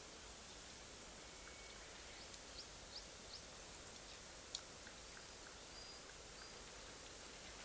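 Bonfire of Iwate cut charcoal and wood crackling softly over a steady hiss, with scattered sharp pops, the loudest about four and a half seconds in.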